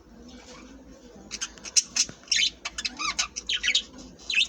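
Budgerigars chattering in a quick run of short, sharp chirps and squawks, starting about a second in.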